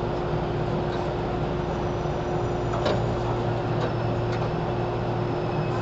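Inside a JR 413 series electric multiple unit, in the KuMoHa 413 motor car: a steady rumble with a constant hum and a few light clicks and rattles.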